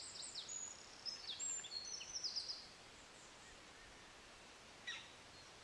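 Woodland birds calling faintly: a run of high-pitched chirps and short falling notes for the first couple of seconds, then a single short call near the end.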